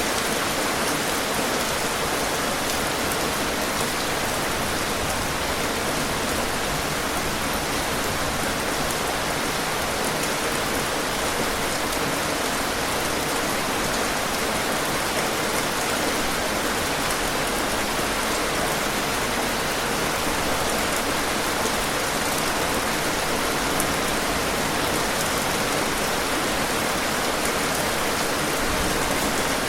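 Steady rain falling on a surface, a constant hiss with fine drop patter and no change in strength.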